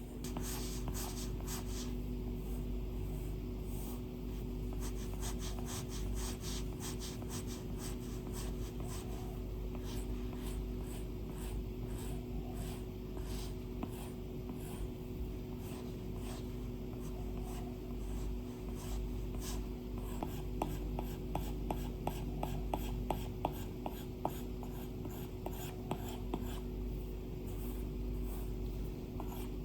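A stylus drawing on an iPad's glass screen: a close, continuous run of quick scratchy pen strokes. From about two-thirds of the way through come sharper tip taps. A faint steady hum runs underneath.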